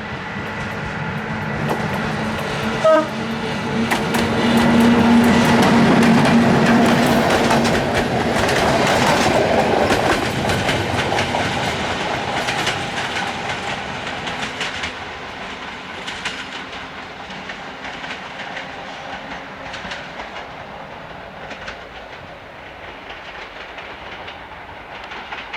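CFR EC-class electric locomotive and its regional passenger train passing over jointed track, the wheels clacking rapidly over the rail joints. The sound swells to its loudest about five to ten seconds in, then fades as the train moves away. There is a short loud toot about three seconds in.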